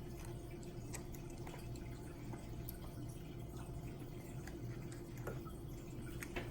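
Faint, scattered wet clicks and small mouth sounds of someone eating a bowl of ramen, with a brief rising squeak about five seconds in, over a steady low hum.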